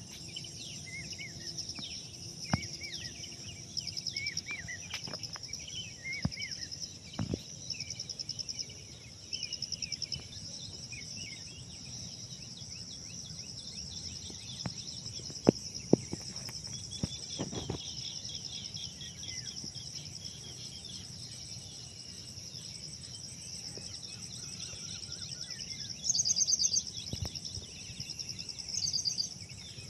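Birds chirping and calling over a steady, high, pulsing insect trill like crickets. The trill swells into louder bursts near the end, and a couple of sharp clicks stand out around the middle.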